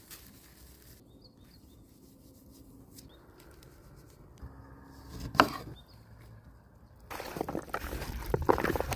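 Food-preparation handling sounds: faint small knocks, one sharp knock about five seconds in, then a louder stretch of rubbing and scraping over the last two seconds.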